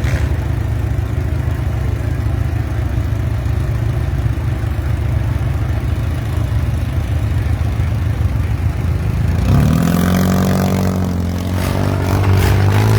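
Demolition derby vehicle engines running with a steady low rumble. About nine and a half seconds in, an engine revs up and holds for a couple of seconds, and it revs again near the end.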